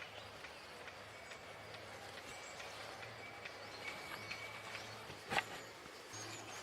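Quiet forest ambience with faint, scattered bird chirps over a low steady hum, and a single sharp knock about five seconds in.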